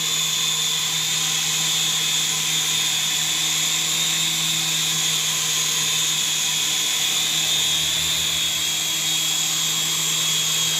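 Small remote-control helicopter in flight, its electric motor and rotor blades giving a steady high-pitched whine over a low hum.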